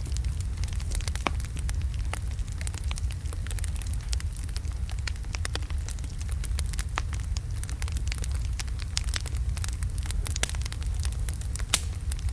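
Wood logs burning in a fireplace: a steady low rumble of the flames with frequent irregular crackles and pops, one sharper pop near the end.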